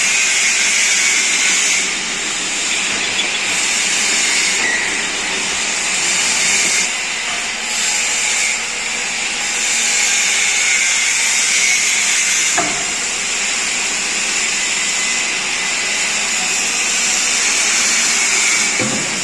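Steady metalworking noise with a hissing edge that swells and fades every second or two, and a single sharp click about twelve seconds in.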